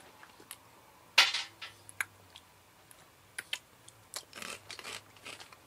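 Crunchy fried corn kernel snack (Boy Bawang cornick, lechon flavour) being bitten and chewed: irregular crisp crunches, the loudest about a second in.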